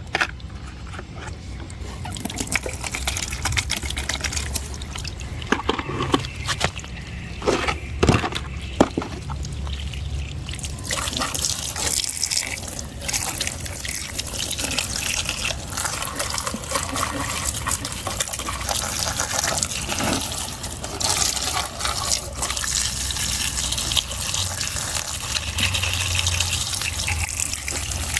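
A few sharp knocks of things being handled, then from about eleven seconds in a steady rush of running, splashing water, as muddy toy vehicles are washed.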